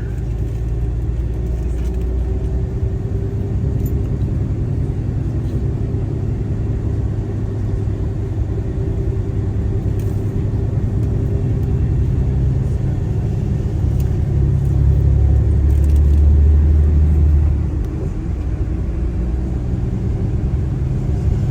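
Tour coach's engine and road noise while climbing a steep grade, a steady low rumble. It swells louder about 15 seconds in and drops back at about 18 seconds.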